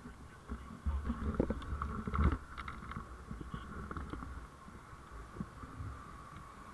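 Low rumbling road and wind noise from a moving vehicle, picked up by a vehicle-mounted camera, with a few louder knocks and bumps between about one and two and a half seconds in.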